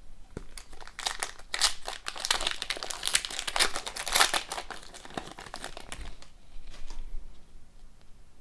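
Crinkling and rustling of a foil trading-card pack as it is handled. It is densest for a few seconds in the middle, then thins to a few light scrapes.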